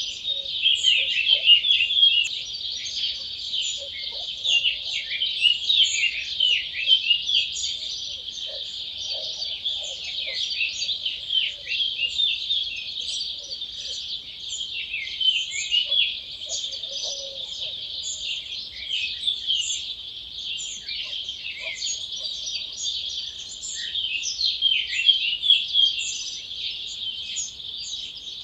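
Dawn chorus: many wild birds singing at once, a dense, unbroken overlap of high chirps and trills, with a few faint lower calls scattered through.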